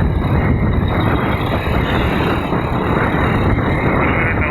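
Motorcycle riding at highway speed: a steady, loud rush of wind and engine and road noise.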